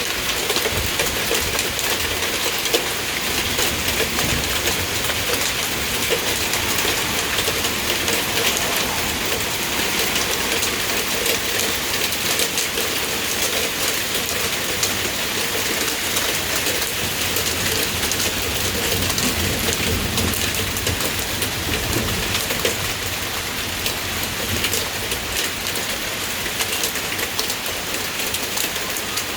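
Marble-sized hail falling in a thunderstorm downpour: a steady, dense clatter of countless small impacts over the hiss of rain.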